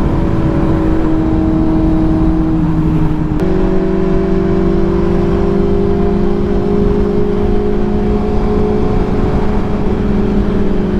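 Sportbike engine running at highway speed, with wind rumble on the microphone. The engine note sags slightly, then jumps up in pitch about three and a half seconds in and holds steady.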